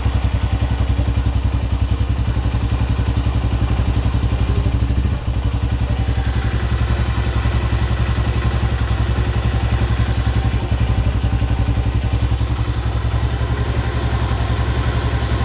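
Honda Phantom 200's single-cylinder four-stroke engine running steadily at a low, even speed through its stock exhaust, a fast, regular exhaust beat.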